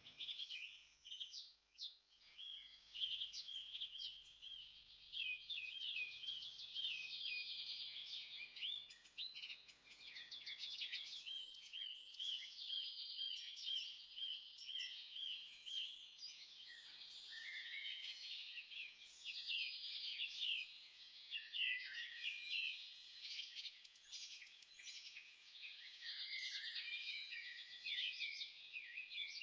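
Many small birds chirping at once, a continuous chorus of short, high calls overlapping without a break.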